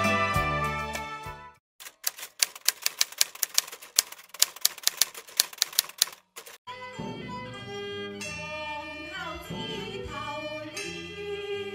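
Background music fades out, then a typewriter sound effect runs for about four seconds, keys clicking quickly and unevenly, a few strikes a second. Near the end, Chinese opera music with singing begins.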